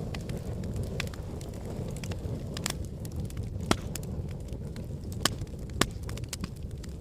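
Wood fire burning in a fireplace: a steady low rumble of flames with frequent sharp crackles and pops, three louder pops in the second half.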